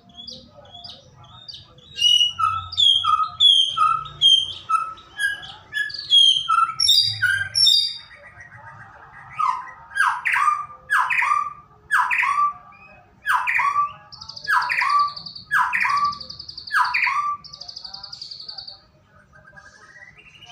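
White-rumped shama singing a varied, loud song. It starts with quick repeated short phrases, about two a second, then gives a series of steeply falling whistled notes about once a second, with buzzy trills mixed in near the end.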